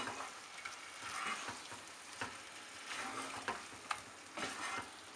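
Mutton pieces in mustard paste sizzling in a non-stick pan, a steady frying hiss, while a wooden spatula stirs them with several short scrapes and knocks against the pan.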